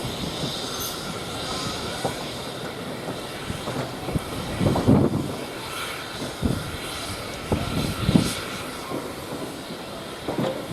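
Train moving on the railway: a steady rumble with irregular heavier thumps.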